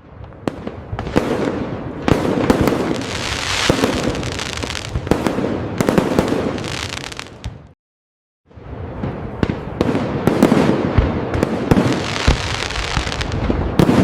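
Fireworks display: a rapid run of sharp bangs and aerial bursts over continuous crackling. About 7.7 s in it cuts to dead silence for under a second, then the bangs and crackle resume.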